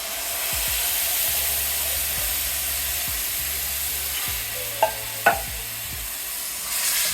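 Red curry paste and aromatics sizzling steadily in a hot oiled pan just after coconut milk has gone in, with two sharp clicks about five seconds in.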